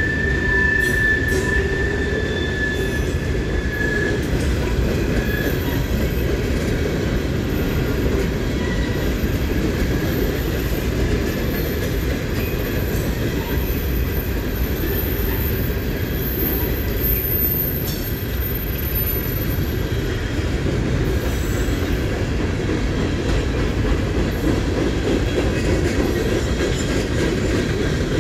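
Freight train of open-top hopper and gondola cars rolling steadily past, a constant rumble of steel wheels on rail with a few knocks at the rail joints. For the first four seconds or so a wheel squeals in a thin, steady high tone.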